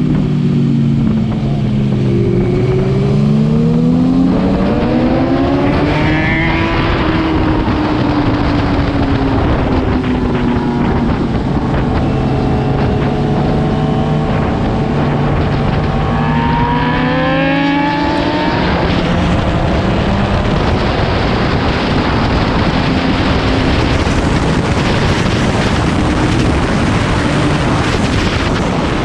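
Motorcycle engine at track speed: its pitch falls as it slows, then climbs hard twice as it accelerates. A loud, steady rushing noise takes over in the last ten seconds.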